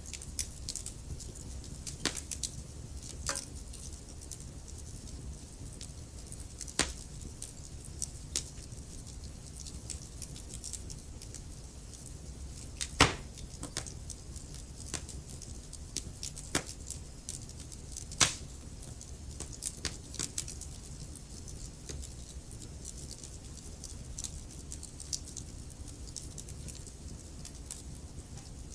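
Wood fire burning in a fireplace: logs crackling, with frequent sharp pops over a low steady rumble of the flames, two of them louder about halfway through.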